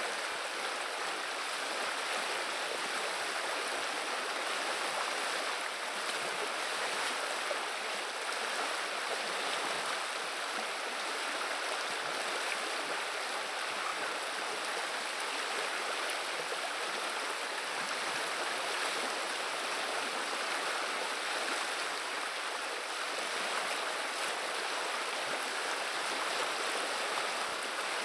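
River water running steadily, an even rushing babble of flowing water.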